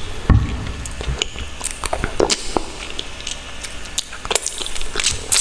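Close-miked eating: chewing and wet mouth sounds, with a scatter of small clicks and smacks.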